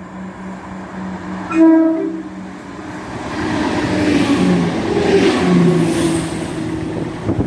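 ScotRail Class 170 Turbostar diesel multiple unit sounding a short horn blast about a second and a half in, then passing through the station at speed with a swelling rush of engine and wheel noise that peaks and fades near the end.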